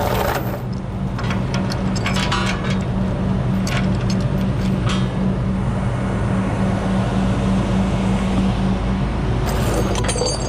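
Diesel engine idling steadily with an even pulsing hum, while tie-down chains clink and rattle now and then as they are handled to secure heavy equipment on the trailer.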